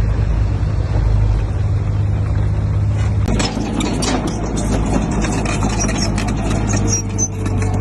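Crawler bulldozer's diesel engine running steadily. About three seconds in the engine note changes and a run of clanks and rattles begins, the sound of the machine working over rock.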